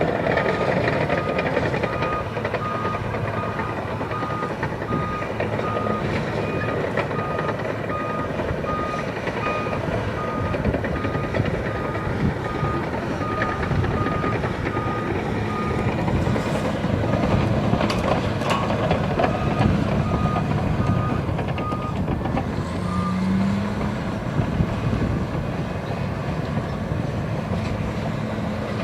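Caterpillar D8R crawler dozer working, its diesel engine running steadily, with a reversing alarm beeping at an even pace over it. The beeping stops about three-quarters of the way through while the engine runs on.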